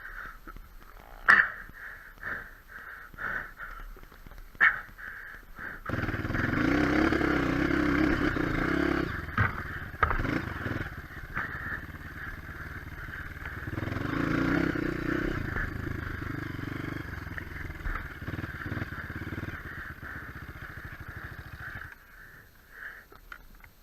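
Off-road motorcycle with a single-cylinder engine running. It comes in about six seconds in, swells louder twice as it revs or goes by, and drops away a couple of seconds before the end. A few sharp knocks come before the engine starts.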